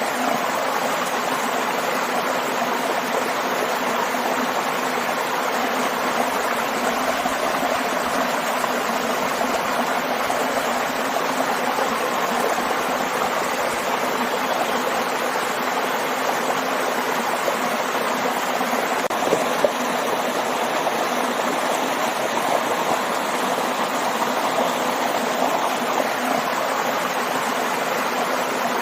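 Waterfall and stream: water rushing and splashing in a steady, even flow.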